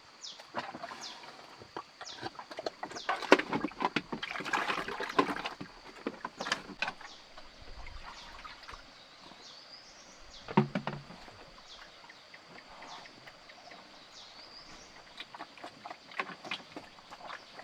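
Water splashing and sloshing in irregular bursts, heaviest a few seconds in, with a louder low thump about halfway through. Short high chirps repeat about once a second over a steady high whine.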